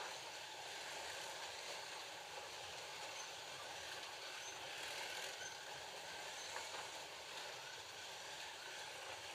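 FLY Classic slot cars with 19K motors running laps: a steady whirring hiss of small electric motors and pickup braids on the track, with faint high whines now and then as cars pass.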